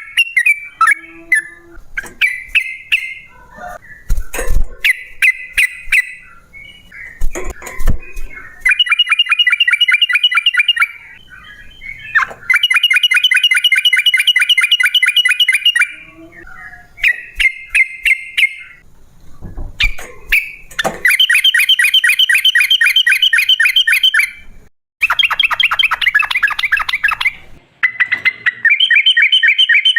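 Yellow-vented bulbul (trucukan) singing: loud, fast chattering trills lasting a few seconds each, alternating with runs of short, sharp chirps. A couple of low thumps sound about four and eight seconds in.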